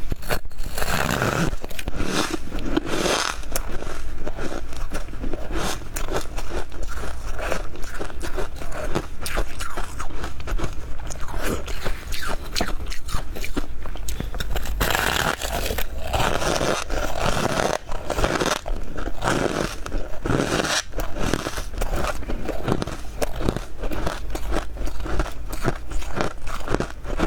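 Close-up crunching and chewing of powdery freezer frost: a dense, continuous run of crisp bites and crunches, with a steady low hum beneath.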